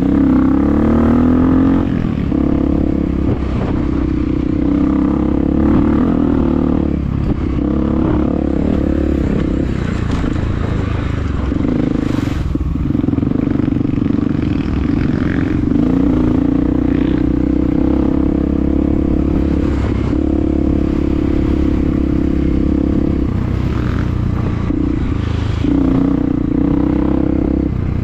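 Honda CRF250F dirt bike's single-cylinder four-stroke engine running at speed, its pitch rising and falling over and over as the throttle opens and closes through the gears, with a few sharp knocks along the way.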